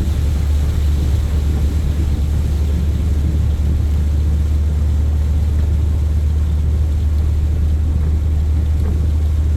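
Steady low rumble of a moving vehicle, like road noise heard from inside a car.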